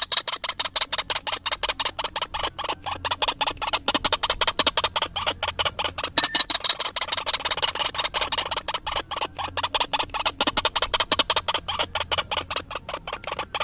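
White-breasted waterhen (ruak-ruak) call played as a bird-trapping lure: a fast, unbroken string of harsh repeated notes, several a second.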